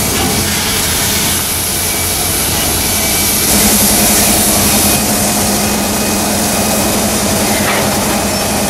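Train running: a steady, noisy mechanical sound, with a low steady hum that comes in about three and a half seconds in.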